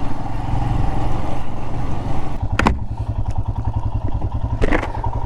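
Royal Enfield Himalayan's single-cylinder engine running steadily with an even pulsing beat while the bike rides over rocky desert gravel.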